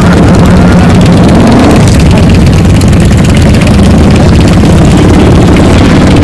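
Loud muscle car engine running, its pitch rising once as it revs up about a second and a half in, then holding at the higher speed.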